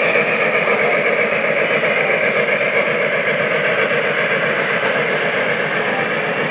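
Lionel O-gauge model trains running on three-rail track, a steady rolling rumble and whirr with no change in pace.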